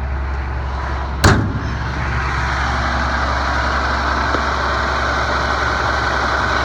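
A truck's diesel engine idling steadily, with one sharp metallic clunk about a second in, like a service-body compartment door being slammed shut.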